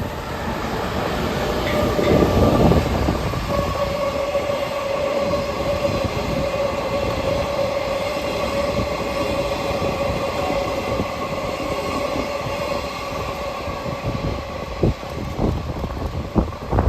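A freight train, an EF210 electric locomotive hauling guard vans and a new subway train set, rolling past with a steady rumble and a sustained high-pitched ringing tone. Sharp wheel clicks over rail joints come near the end.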